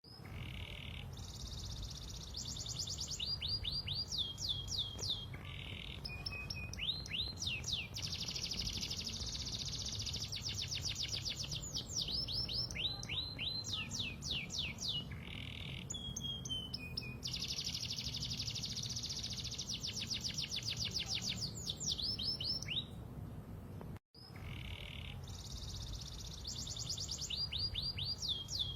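Domestic canary singing: long phrases of fast trills and rapid, repeated falling sweeps, with a brief break about three-quarters of the way through. A steady low background rumble runs underneath.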